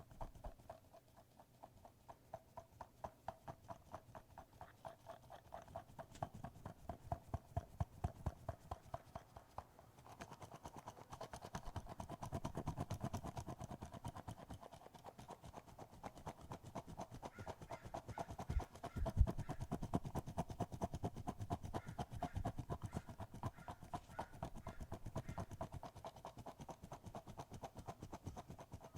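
Repeated tapping in an even rhythm, about two or three taps a second at first, then quicker and denser from about ten seconds in, over a faint steady hum.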